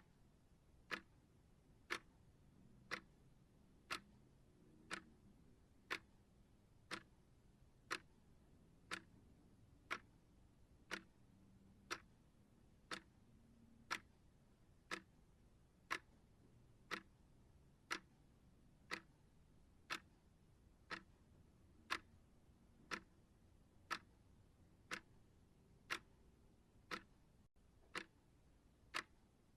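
Clock ticking steadily, one short sharp tick every second.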